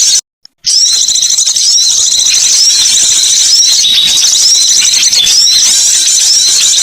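Loud recorded songbird calls: dense, continuous high-pitched chirping with quick repeated notes. The sound cuts out to silence for about half a second just after the start, then resumes.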